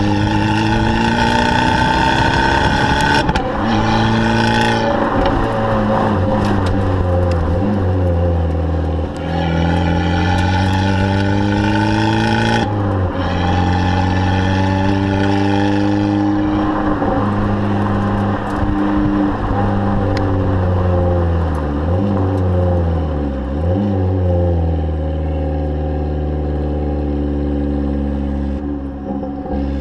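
Abarth 500's turbocharged 1.4-litre four-cylinder engine and exhaust, the revs rising and falling several times, with a sudden drop in pitch about halfway through and two quick dips before it settles to a steadier note.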